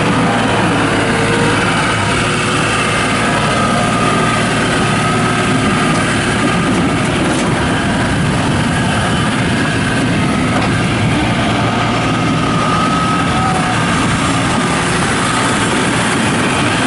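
New Holland LS180 skid steer loader's diesel engine running steadily and loud while the machine is worked, with faint whining tones coming and going above the engine noise.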